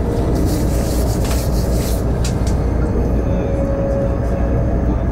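Train running at speed, heard from inside the carriage: a steady low rumble, with a few brief rushes of hiss in the first two seconds.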